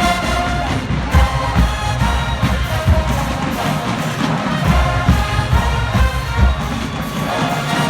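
Marching band playing loudly, a full brass section carrying the tune over heavy drum beats.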